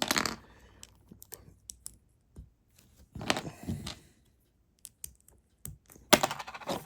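Small plastic LEGO pieces clicking and rattling as they are handled and picked out: three short bursts of clatter, near the start, about halfway through and near the end, with scattered light clicks between.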